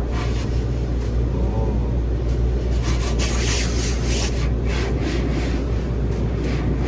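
Car wash foam brushes scrubbing and swishing over the car's body, heard from inside the cabin over a steady low rumble. The scrubbing grows much louder about three seconds in, in repeated rough sweeps.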